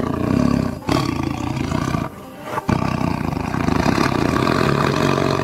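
Tiger roaring three times, the last roar the longest and most drawn out.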